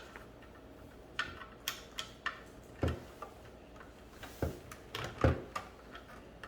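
Hard plastic toy pieces clicking and knocking as they are handled and fitted together, at irregular intervals, with a few heavier thumps.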